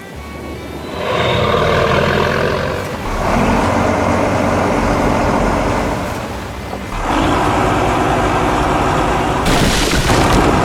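Heavy construction-vehicle engine sound effects: a loud engine noise that comes in three stretches, briefly easing between them. A hissing noise joins near the end.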